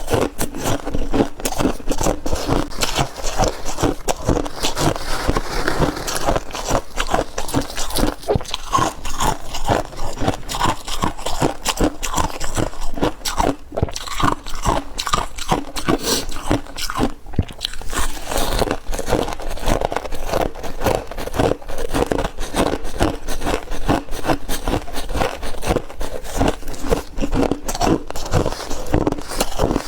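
Chunks of refrozen freezer frost being bitten and chewed close to the microphone: squeaky crunches following one another rapidly, without a break.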